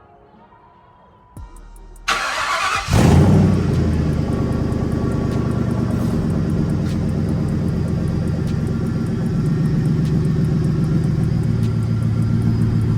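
A car engine is cranked over by its starter about two seconds in and catches a second later with a brief flare of revs. It then settles into a steady idle. The engine has just had an overhaul.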